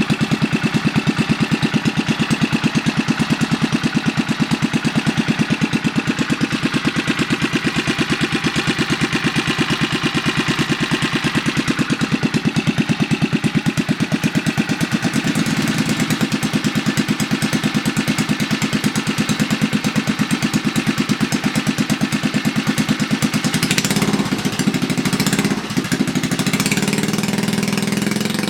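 Briggs & Stratton 3 hp single-cylinder four-stroke engine running through a short home-built exhaust, with a steady, even beat of firing pulses. Near the end the beat speeds up and smooths into a steadier note as it revs up.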